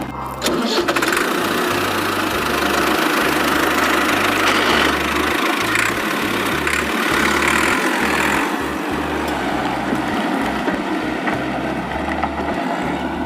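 Steady running tractor-engine sound for a toy tractor, stepping up about half a second in and then holding.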